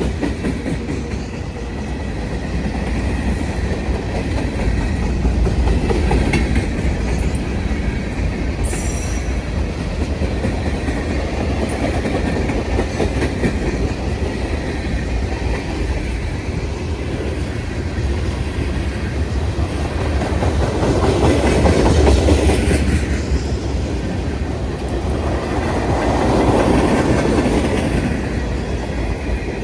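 Freight train cars rolling past, a steady rumble of steel wheels on rail with clickety-clack, swelling louder about two-thirds of the way through and again near the end.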